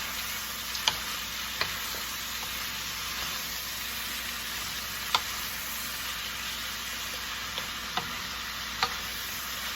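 Shredded chicken and mixed vegetables sizzling in a pan as they are stirred and sautéed, with the stirring utensil knocking sharply against the pan about five times.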